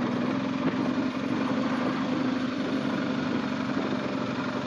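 BMW R1250GS boxer-twin engine running at a steady pitch.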